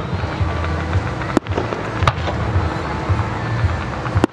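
Aerial fireworks bursting, a continuous dense crackle with sharp bangs at about a second and a half, two seconds and near the end.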